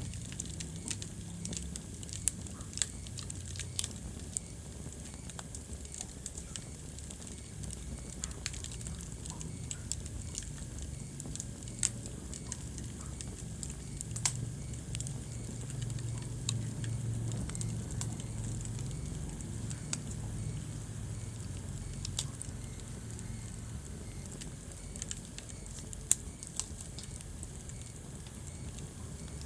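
Wood fire burning in a fireplace: a steady low rumble of flames with irregular crackles and a few sharp pops of the burning logs.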